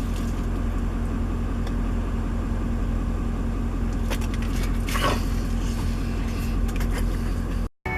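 Steady road and engine rumble heard inside a moving vehicle's cabin, with a faint rustle about four to five seconds in. The sound drops out abruptly for a moment near the end.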